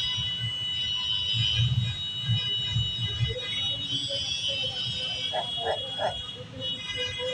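A steady, high-pitched buzzing drone made of several held tones, over a low rumble. Faint voices come in briefly about five seconds in.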